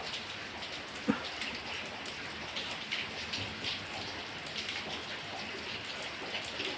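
Steady rain falling, drops pattering densely on surfaces, with one sharp knock about a second in.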